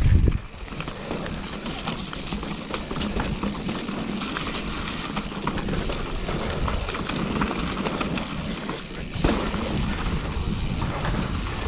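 Mountain bike rolling down a wet, rocky trail: tyre noise on dirt and stones, with the bike rattling over bumps and wind on the microphone. A sharper knock comes about nine seconds in.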